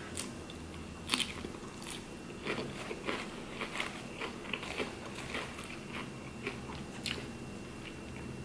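Close-miked chewing of a mouthful of fresh leafy salad: irregular crisp crunches of lettuce between the teeth, a louder pair about a second in.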